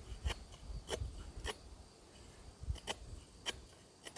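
Ontario Bushcraft machete cutting into dry spruce: about six short, sharp knocks, spaced roughly half a second to a second apart.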